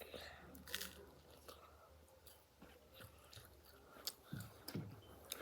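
Faint close-up chewing of crisp, slightly burnt toast, with irregular small crunches.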